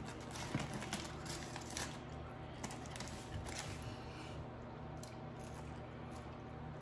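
Someone chewing and biting into soft-shell crab close to the microphone: faint wet crunches and small mouth clicks, most frequent in the first few seconds, over a steady low hum.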